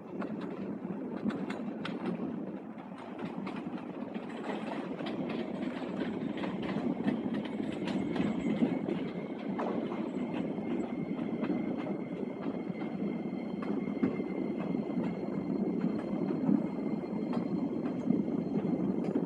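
Train running on the track, the wheels clicking over rail joints, with a faint steady high whine above the rumble.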